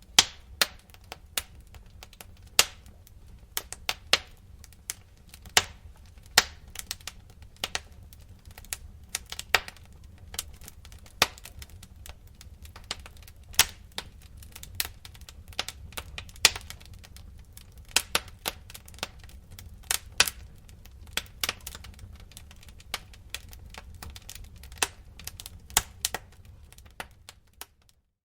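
Wood fire crackling in a fireplace: irregular sharp pops and snaps over a low, steady rumble, with a brief drop-out near the end.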